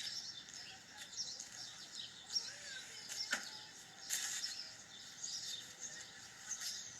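Small birds chirping and twittering in short high calls, over faint outdoor background noise, with one sharp click a little past three seconds in.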